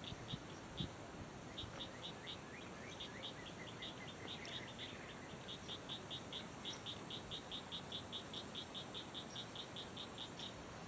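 A small bird chirping in short high notes, scattered at first and then an even run of about four to five a second, over a steady high insect buzz.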